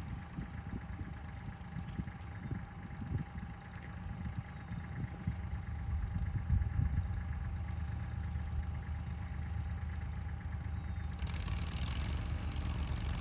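Small vehicle engine running at low speed, growing louder about halfway through, with a rushing hiss joining near the end.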